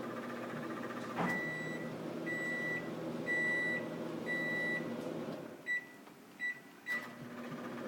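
Microwave oven running with a steady hum, then four long beeps about a second apart as the cycle ends. The hum drops away and three short keypad beeps follow, after which the running hum comes back.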